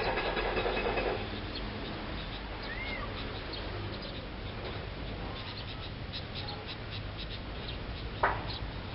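Wild birds giving short, faint chirps over a steady outdoor hiss, after a burst of noise in the first second. A single sharp, louder note comes near the end.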